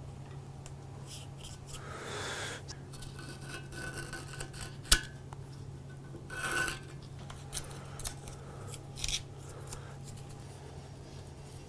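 Hand work on a restored Barnes foot-powered mortiser's parts: intermittent scraping and rubbing with small ticks, and one sharp click about five seconds in.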